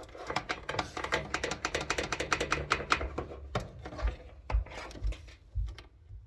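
Rapid clicking and tapping from a cockatoo moving about inside a clothes dryer drum, then four low thumps about half a second apart near the end.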